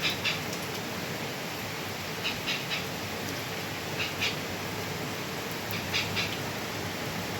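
A bird giving short, high calls in groups of two or three, about every one and a half to two seconds, over a steady hiss.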